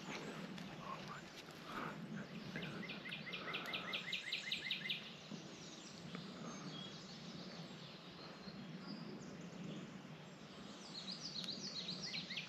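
A small bird singing a fast trill of evenly repeated high chirps, about seven a second, once about three seconds in and again near the end, over a faint steady background.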